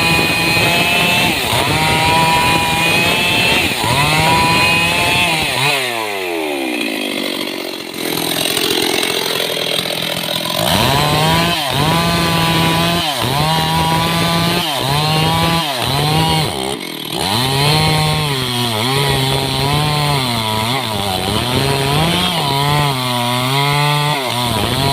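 Stihl chainsaw running at high revs while cutting mahogany. About six seconds in the engine pitch falls sharply. From about eleven seconds it repeatedly dips and picks back up, roughly once a second, as the chain works through the wood.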